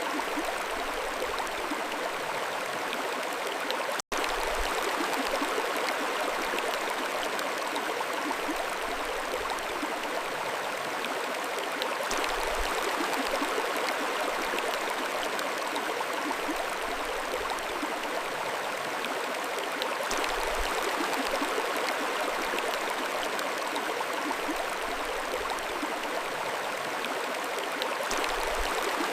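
Alpine mountain stream flowing in a steady rush of water. A split-second dropout comes about four seconds in.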